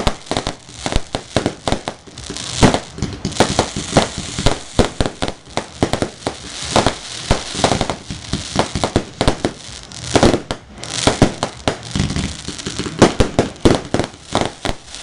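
Fireworks going off in a rapid, irregular string of sharp cracks and pops, with no break.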